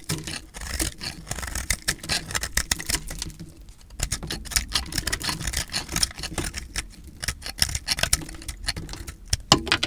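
A knife cutting through dry recycled soap, making a dense, crackly crunch of many small snaps, with a short pause about three and a half seconds in.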